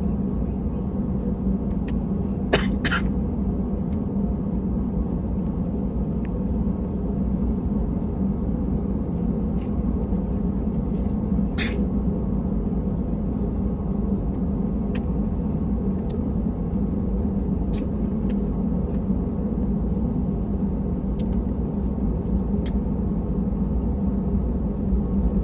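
Steady low drone and hum inside an Airbus A320 cabin on the ground, with a few short sharp clicks and knocks, the loudest about two and a half seconds in.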